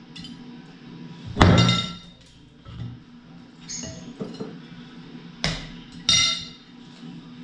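Clinks of cutlery and crockery at a breakfast table: three ringing strikes, the loudest about a second and a half in, two more near the end.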